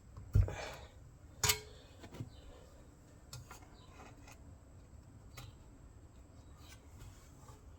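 Scattered metal clicks and knocks from hand work on a small lawnmower engine as a part is prised loose: a thump about half a second in, a sharp ringing click about a second later, then a few lighter ticks.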